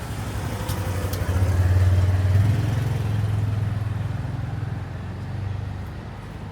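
A motor vehicle's engine rumbling close by, swelling to its loudest a couple of seconds in and then fading as it passes.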